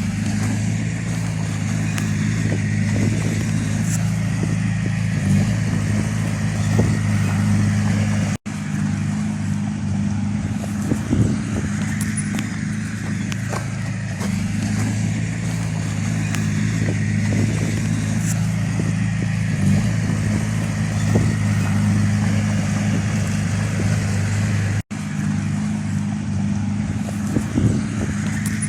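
Heavy-equipment diesel engine running at a steady speed, with scattered light clanks. The sound breaks off for an instant twice, at edits.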